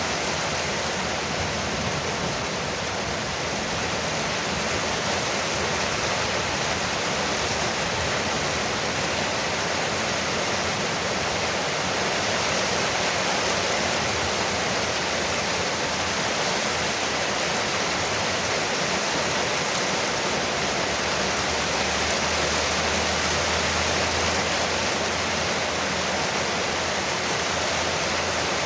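Heavy rain falling steadily on a porch roof, an even hiss that holds without letting up.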